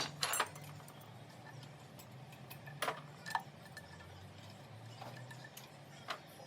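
Scattered sharp knocks and clinks, about five in all, two close together near the start, two around the middle and one near the end, over a low steady hum.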